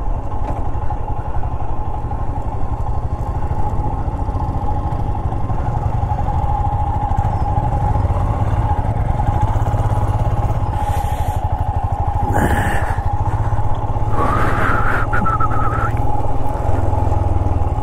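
Royal Enfield Himalayan's single-cylinder engine running steadily under way, heard from the rider's position. Two brief higher-pitched sounds come over it about twelve and fourteen seconds in.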